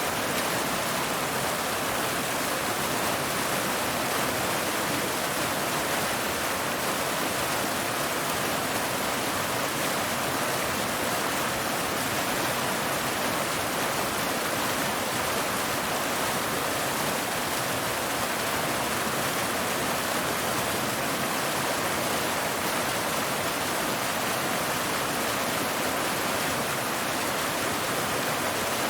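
Waterfall: water falling and splashing over rocks in a steady, even rush.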